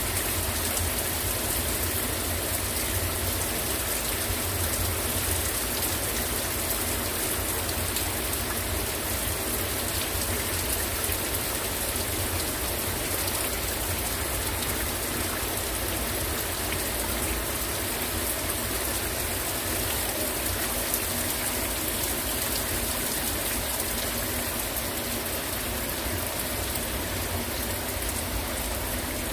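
Heavy rain falling steadily: an even hiss of the downpour with many small drop ticks in it.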